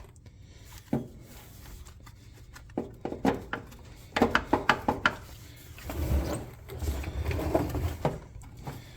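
Clicks, clanks and knocks of metal parts and hand tools being handled, with a quick cluster of sharp knocks about four to five seconds in. Low rumbling handling noise follows.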